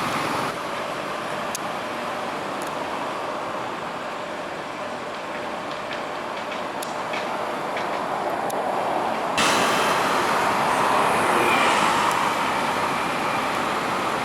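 Steady motor-vehicle engine and road noise, stepping up suddenly to a louder, brighter rush about nine seconds in.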